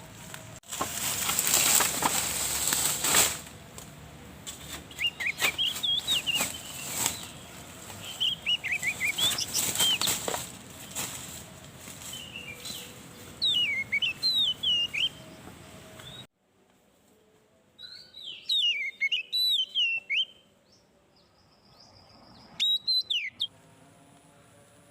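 Birds chirping in short, pitch-gliding bursts, with a loud rustling, crackling noise in the first few seconds. The sound drops off suddenly partway through, and the chirping carries on more faintly.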